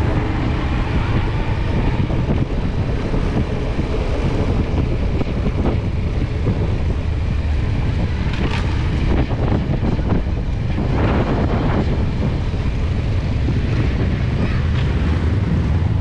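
Motorcycle running on a ride, its engine drone nearly buried under heavy wind noise on the microphone, steady throughout.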